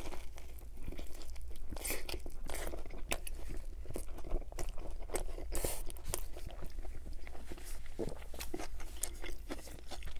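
Close-miked chewing of a large bite of Chicago-style hot dog with its bun and vegetable toppings: a steady run of short, irregular crunches and mouth sounds.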